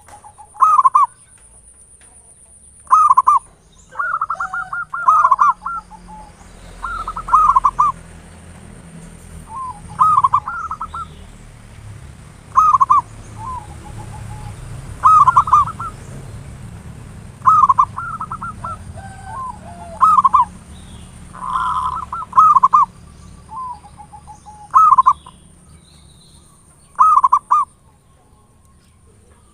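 Zebra doves (perkutut) cooing: short rapid stuttering phrases repeated every two or three seconds, sometimes overlapping, over a faint steady high-pitched whine.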